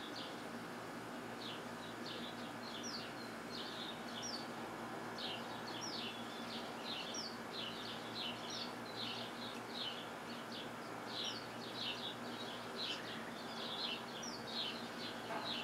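Small birds chirping continually: many short high chirps over a steady low background hum.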